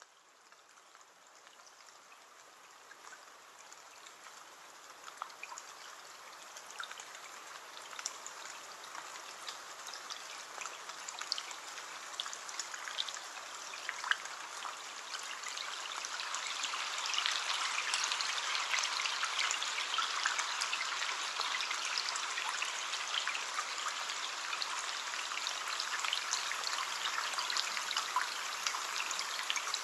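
Rain on a window pane: a steady hiss of rainfall with many individual drops ticking, fading in from silence over the first fifteen seconds or so and then holding steady.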